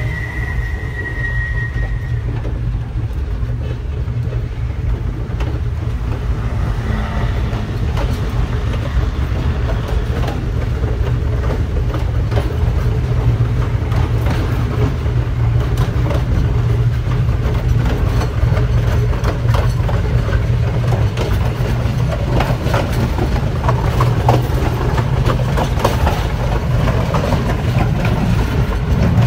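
Diesel train running along the track: a steady low engine drone with the clicking of wheels over the rails, getting busier in the second half. The tail of a horn blast fades out in the first two seconds.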